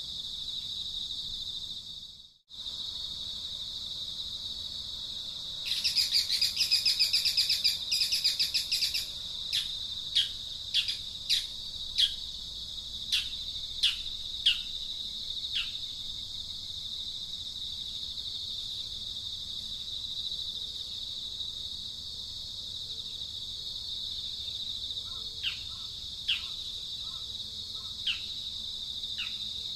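Outdoor insect chorus droning steadily at a high pitch, with a bird calling over it. About six seconds in comes a loud, fast rattling chatter, then a string of short falling chirps, with a few more near the end.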